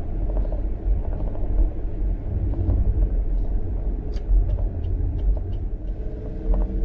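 Steady low rumble of a vehicle on the move, with a few light clicks about four to five seconds in.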